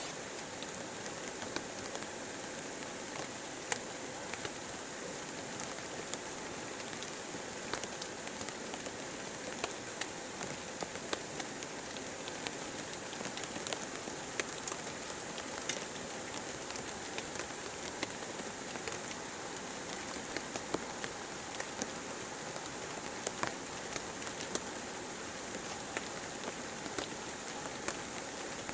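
Heavy rain falling steadily, with many sharp, separate drop hits ticking through the hiss.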